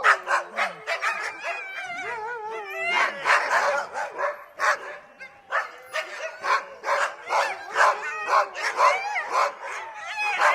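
Several dogs barking repeatedly in quick, overlapping barks, mixed with wavering howls and whines.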